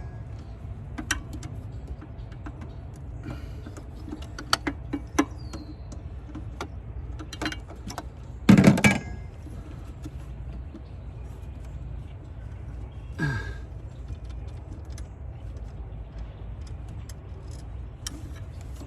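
Scattered clicks and light knocks of hand tools and metal parts being handled under the hood while an EGR valve is refitted, with one louder clatter about eight and a half seconds in and a short falling squeak about thirteen seconds in.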